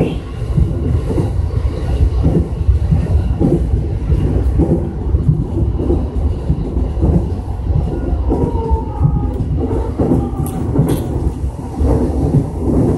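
E233-series electric train running at speed, heard from inside the front car: a steady heavy rumble of wheels on rail with irregular clatter and knocks.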